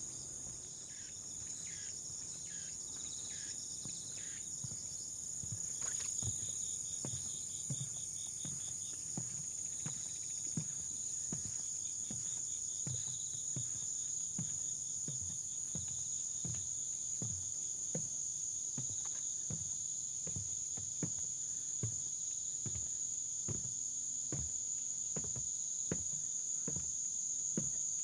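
A high, steady chorus of insects, with walking footsteps on the trail joining in about six seconds in and keeping an even pace of roughly two steps a second.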